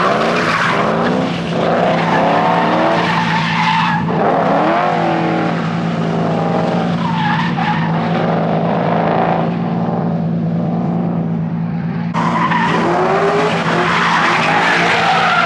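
Drift cars with engines revving up and down through their slides, over tyre skidding and squealing. The high tyre hiss drops out for several seconds in the middle and comes back near the end.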